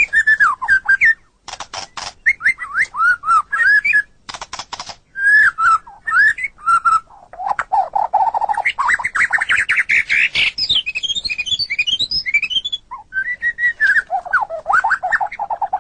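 White-rumped shama singing a long, varied song: sliding whistled phrases broken by fast rattling trills and quick high notes.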